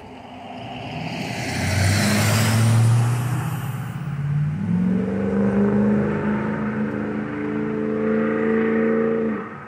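A car engine revving hard under acceleration, its pitch climbing. About four and a half seconds in the pitch steps up, and it then holds a steady, higher drone until it cuts off suddenly.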